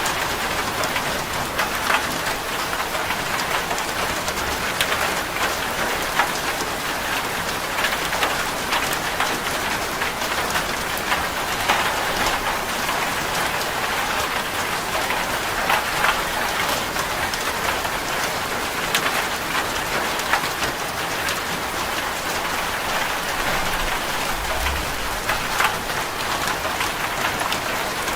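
Steady rain falling on a corrugated zinc (seng) roof: a dense, even patter of drops hitting the metal sheets, with many sharp individual ticks.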